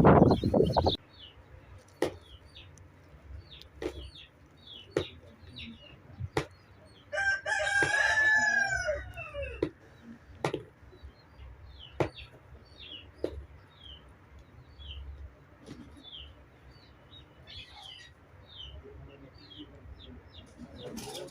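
A rooster crows once, about seven seconds in, a single drawn-out call of about two and a half seconds that rises and then falls. Small birds chirp throughout, with scattered sharp knocks. A loud burst of noise at the start cuts off about a second in.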